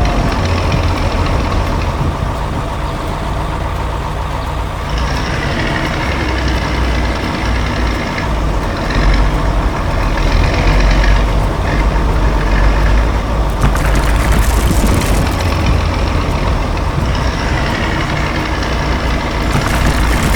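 Heavy truck engine running with a steady low rumble. A burst of hiss comes about fourteen seconds in.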